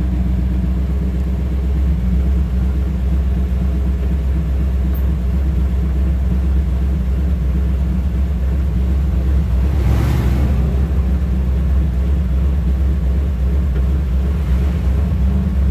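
Car interior noise while driving on a bumpy road: a steady low rumble of engine and tyres, with a brief swell of noise about ten seconds in.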